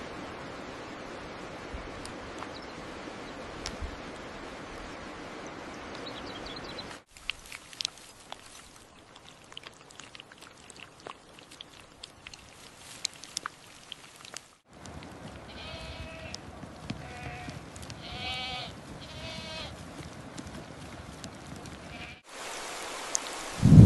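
Bleating from sheep or goats: four short calls past the middle. Before them comes a steady background hiss, then a quieter stretch with scattered faint clicks, and the background changes abruptly at each cut.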